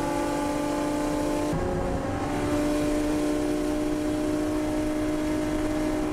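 Ferrari racing car's engine running hard at full speed, heard from inside the cockpit. The note changes about a second and a half in, as at a gear change, then holds steady as the car keeps accelerating.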